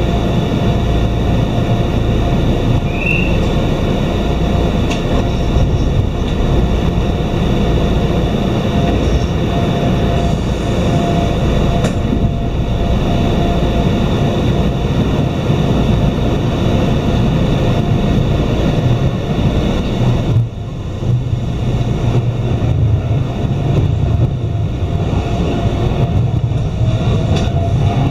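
Iyotetsu Takahama Line electric train heard from inside the car: a steady rumble and hum with a thin steady tone. About two-thirds through, the higher hiss drops away and a heavier low rumble takes over. Near the end a rising whine comes as a red train passes close alongside.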